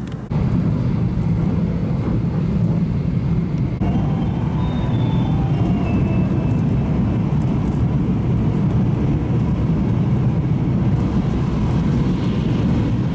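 Steady running noise of a 700 series Shinkansen heard inside the passenger car as the train moves, a loud low rumble. A faint motor whine is heard from about four seconds in.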